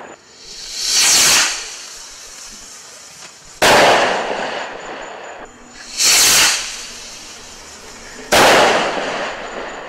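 Speed Of Light M200 Miracle consumer firework going off: a hiss that swells and dies away over about a second, then a sharp bang that fades slowly over a few seconds. The pair comes twice.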